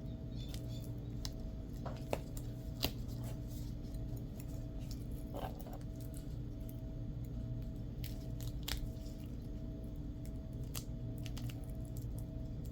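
Scattered small clicks and scrapes of hand cutting work, typical of a craft knife or scissors going through Velcro and fabric, over a steady low electrical hum.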